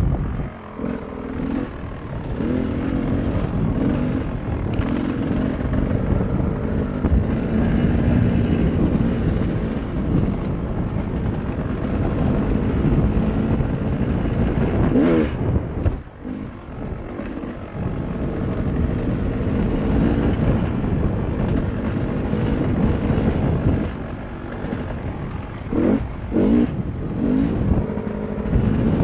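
Dirt bike engine running as it is ridden, its pitch rising and falling with the throttle, easing off briefly about halfway through and blipping up and down a few times near the end.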